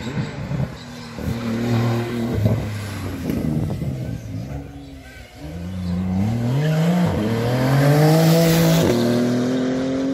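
Sports car engine under hard acceleration. It runs choppily at lower revs at first, then the pitch climbs steeply through the gears, with two upshifts in the second half.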